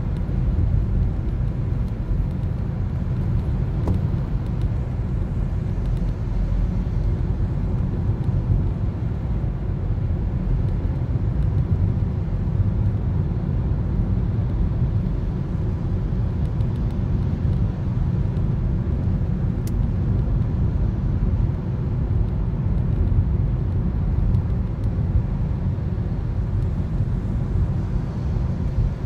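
Steady low rumble of a Toyota Corolla driving, road and engine noise heard from inside the cabin.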